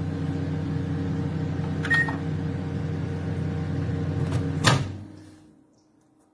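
Russell Hobbs RHM2076B 800 W microwave running with a steady hum, on its own and not stopping from the controls: the oven is faulty. A short beep sounds about two seconds in, then the door latch clicks open near the end and the hum dies away.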